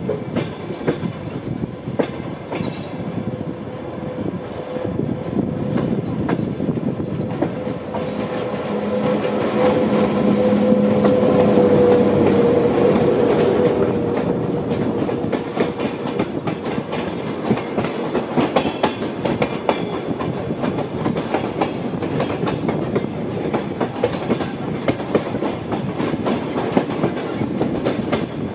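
Passenger train wheels clattering over rail joints (clickety-clack) with a steady rumble, heard from a moving train as another train of passenger carriages runs close alongside on the next track. The noise swells to its loudest about ten to fourteen seconds in, with a steady hum and a hiss over it, then settles back into an even, rhythmic clatter.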